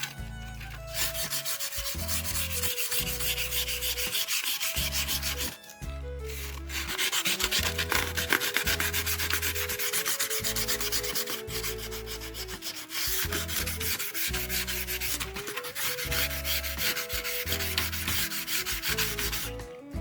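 Abrasive sanding of wood in long continuous spells, pausing briefly about half a second in, again around six seconds in, and just before the end.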